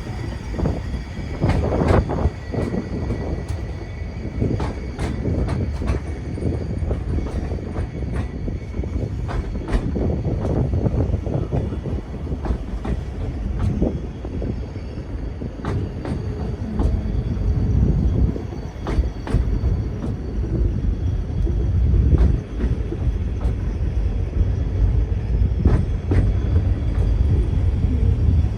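Great Orme Tramway cable-hauled tramcar running on its rails: a steady low rumble with frequent, irregular clicks and knocks.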